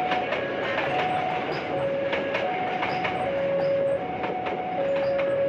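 Passenger coaches running past close by, with a steady rumble and sharp wheel clicks over the rail joints. Over it a level-crossing warning alarm keeps sounding, switching back and forth between a higher and a lower tone.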